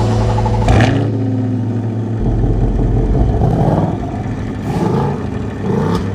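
Car engine running, with a brief rise in revs about a second in and again near the end, as music fades out at the start.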